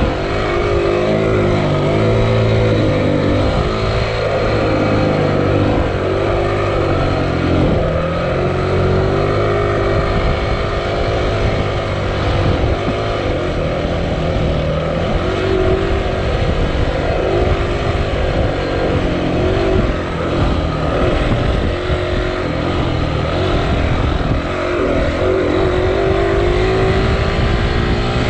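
Dirt bike engine running under load, its pitch rising and falling again and again as the throttle is worked.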